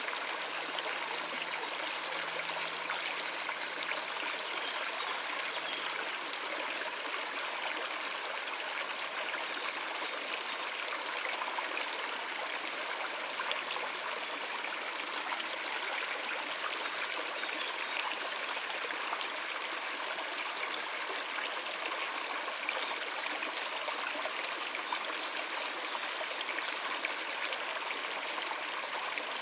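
A stream running over rocks: a steady, even rush and trickle of water.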